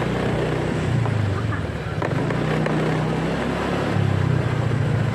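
Motorcycle engine running while riding in traffic, its pitch and level changing with the throttle, over a steady rush of wind and road noise.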